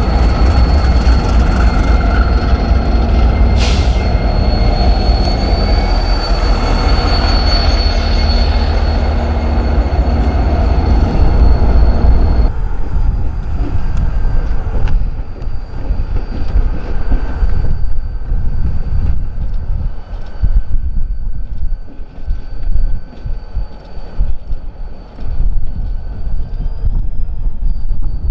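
Freight train rolling through a rail yard with a steady high wheel-flange squeal over a heavy rumble, and one sharp clank about four seconds in. About halfway through the rumble drops off abruptly; a fainter squeal and an uneven low rumble carry on.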